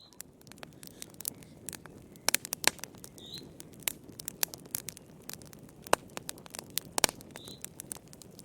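Wood fire crackling in a fireplace: irregular sharp pops and snaps over a soft, steady rush of burning. The loudest pops come in a cluster about two and a half seconds in, and again around six and seven seconds.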